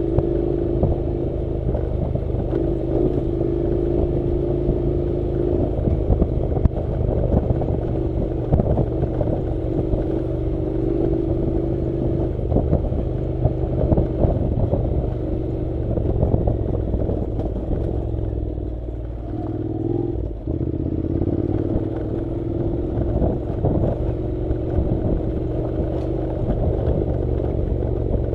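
Honda NC700's parallel-twin engine running at a steady, moderate pace while the motorcycle rides over a dirt and gravel track, with constant clatter and knocks from stones and the bike rattling over rough ground. About two-thirds of the way through, the engine note eases off briefly and then picks up again.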